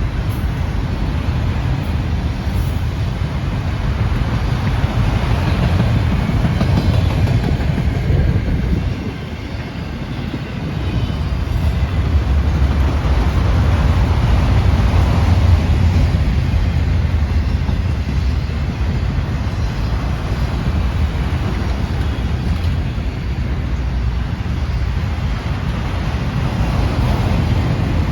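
A train rolling past: a continuous loud rumble of railcars on the track, dipping briefly about nine seconds in and then building again.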